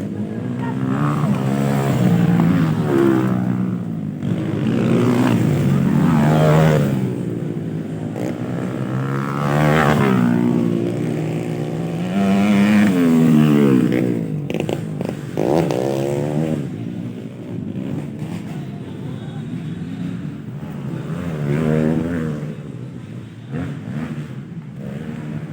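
Motocross dirt bikes racing, their engines revving up and falling back again and again as they accelerate, shift and pass, several swells of engine noise overlapping, quieter in the last third.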